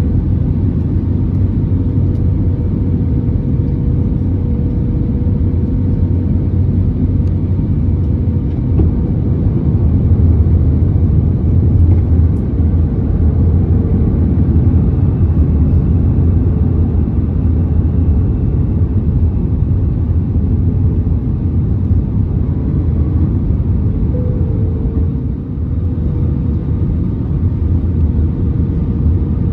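Airbus A320neo cabin noise: a steady low rumble of engines and airflow, with a faint wavering engine tone above it.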